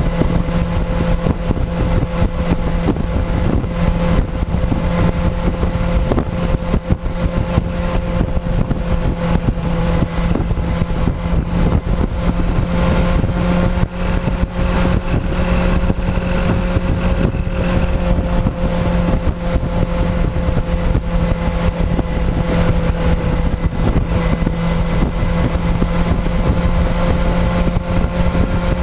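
Motorcycle engine running at a steady cruise, its pitch holding nearly constant with a slight rise and fall around the middle, over a dense low rumble of noise.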